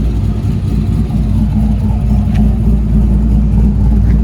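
Corvette's V8 idling with a lumpy, choppy lope, typical of an aggressive camshaft; the low rumble stays steady and loud.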